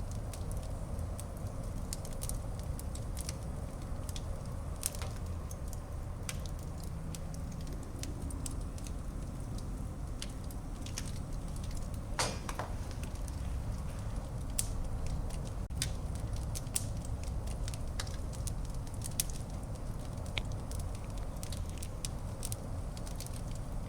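Wood fire burning in a fireplace: a steady low rumble of flames with frequent irregular crackles and sharp pops, one stronger pop about halfway through.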